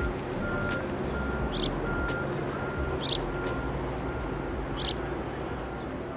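A bird chirping at intervals of about a second and a half. A short, steady, higher beep repeats faster, about every half to two-thirds of a second, over a low background rumble.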